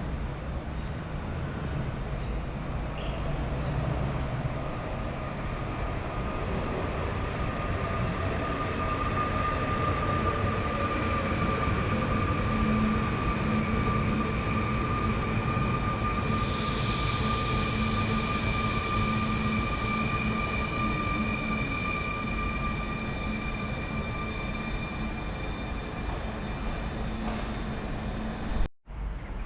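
Electric multiple unit train, a PESA Elf 22WEd, running along the platform: a steady rumble with a thin high whine held through much of it and a short hiss partway through. It cuts off suddenly near the end.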